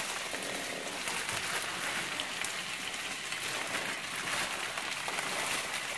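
Frozen corn kernels sizzling in hot rendered bacon fat and butter in an enamelled cast-iron skillet: a steady sizzle with fine crackling.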